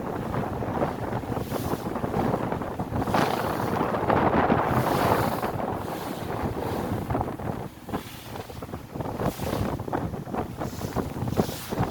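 Wind buffeting the microphone on a moving ferry, over the rush of water along the hull. The noise swells about four seconds in, drops briefly about two-thirds of the way through, then returns in crackling gusts.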